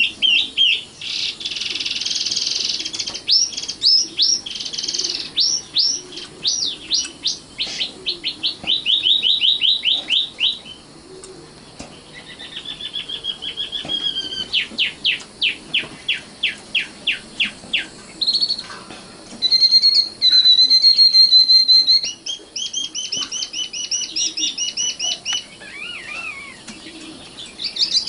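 Common nightingale singing in varied phrases: a rasping burst, fast runs of repeated sweeping notes, and a held whistle a little past the middle, with short pauses between phrases.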